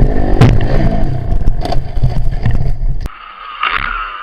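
Dirt bike riding: an engine running under a heavy low rumble, with several sharp knocks and a scrape. It cuts off abruptly about three seconds in.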